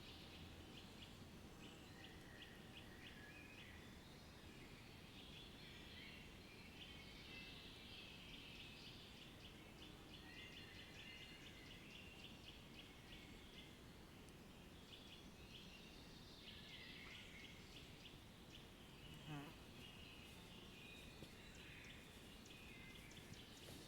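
Faint birdsong: many small birds chirping over a low background hum, with one short, louder call that slides down in pitch about 19 seconds in.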